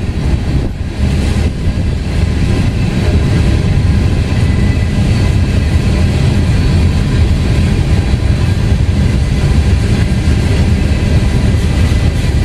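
BNSF freight train's cars rolling past at close range: a loud, steady rumble of wheels on the rails.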